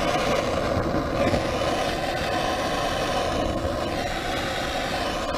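Handheld gas torch burning with a steady hiss, its flame heating a seized valve-rocker adjusting nut to free it.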